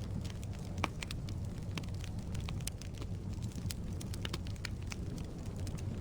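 Firewood burning in a fireplace: a steady low rumble of flames with frequent sharp crackles and pops, one louder pop a little under a second in.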